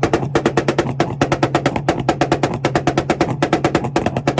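Honda car engine held on a two-step launch limiter, the limiter cutting the ignition in a rapid, even stutter of pops, about nine a second, over the engine's steady drone.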